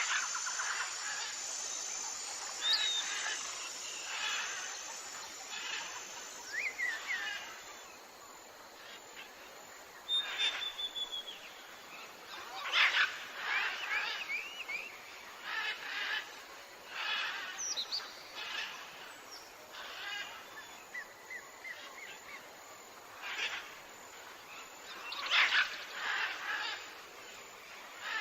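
Several forest birds chirping and singing: short calls and quick whistled glides, one after another every second or so.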